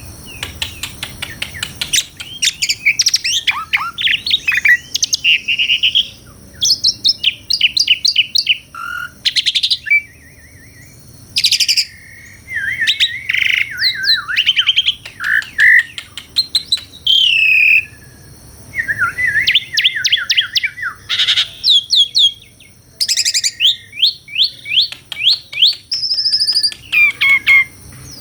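Javan pied starling (jalak suren) singing a long, varied song of rapid chattering trills, whistles and harsh notes, broken by short pauses.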